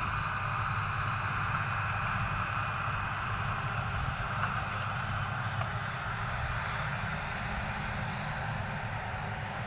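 A vehicle engine running steadily with an even hiss over it, at a constant pace throughout.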